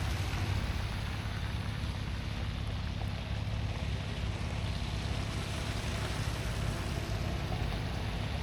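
Jeep driving on the road: a steady low rumble of engine and tyre noise.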